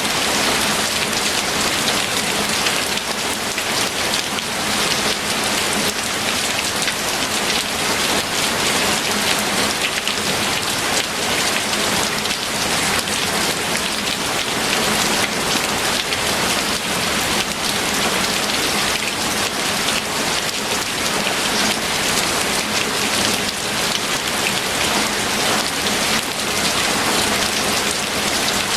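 Steady heavy rain falling and pattering on a surface, an even dense hiss with no let-up.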